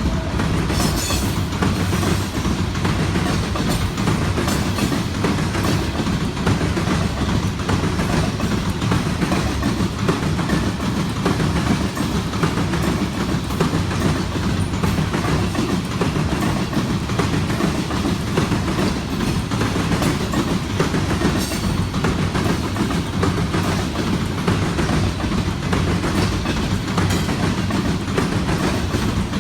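Freight train cars rolling past, steel wheels clicking over rail joints in a steady rolling noise.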